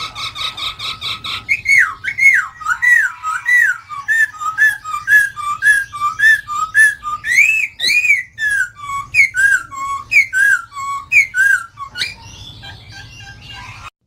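Poksay Hongkong laughingthrush singing a long run of loud, slurred whistled notes, about two a second, which stop near the end.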